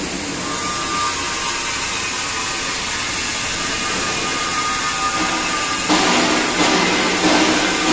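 Tractor-mounted log crane with the tractor engine running steadily and a faint steady whine, and two louder hissing surges about six and seven seconds in.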